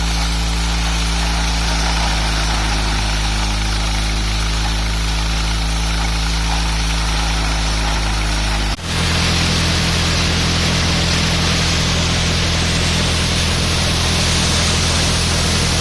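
Threshing machine running steadily while threshing soybeans, a continuous mechanical drone. About nine seconds in the sound changes abruptly to a somewhat higher hum with a louder rushing hiss.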